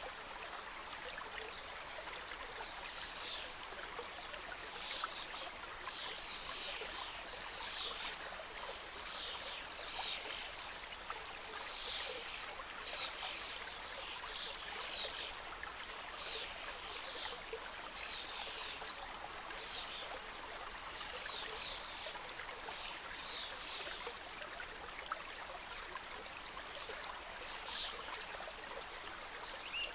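Mountain stream flowing in a steady rush, with birds giving short, high, falling chirps again and again through most of it.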